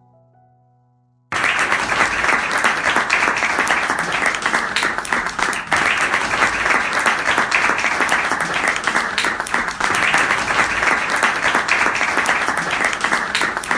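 Audience applause sound effect: dense, steady clapping that starts suddenly about a second in.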